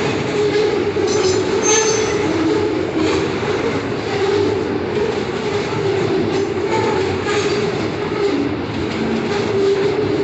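Train wagons rolling past on the rails, a steady rumble with wavering tones and brief high-pitched wheel squeals.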